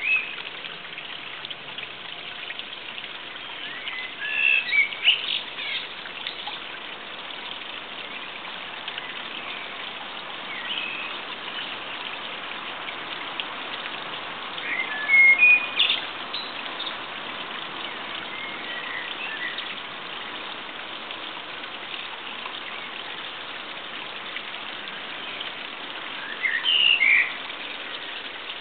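Small birds chirping and calling in short bursts every few seconds, loudest about four to six seconds in, around fifteen seconds and near the end, over a steady background hiss.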